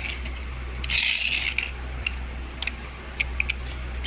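Pull-back toy car's spring motor: a short gritty whirr of its gears about a second in, with scattered small clicks and taps from the toy's plastic.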